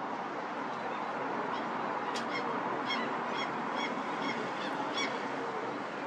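A gull calling: a quick series of about eight short, honking calls starting about two seconds in and stopping about a second before the end. Beneath them is a steady background of city traffic noise.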